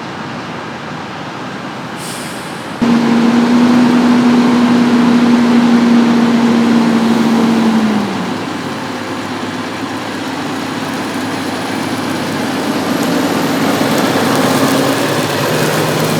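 Farm machinery running. About three seconds in it suddenly gets louder with a steady hum, which drops slightly in pitch and fades about eight seconds in, while a rushing noise slowly builds.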